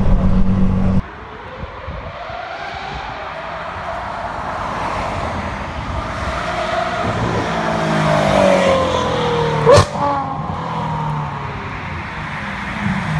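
About a second of the Novitec Ferrari F12's V12 running with a deep steady note, cut off abruptly. Then a car approaches and passes at speed, its engine note climbing as it nears and dropping as it goes by, with one sharp loud crack about ten seconds in.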